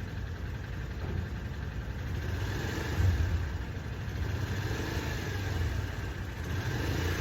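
Motorcycle engine idling, with the engine note swelling briefly about three seconds in and again near the end.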